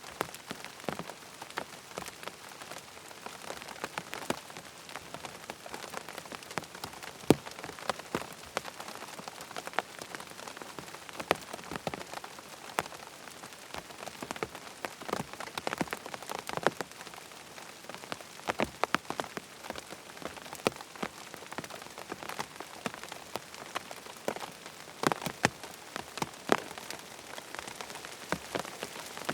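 Steady rain falling on a tent's fabric, a constant patter with many irregular, sharper drop hits standing out from it.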